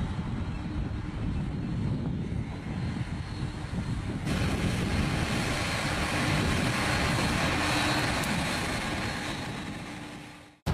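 Tractor engine running steadily under a rumbling drone. About four seconds in, a louder hiss joins it, and the sound fades out near the end.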